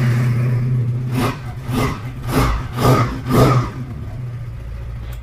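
Regal Raptor Spyder chopper motorcycle engine idling, blipped five times in quick succession, about twice a second, then settling back to a steady idle.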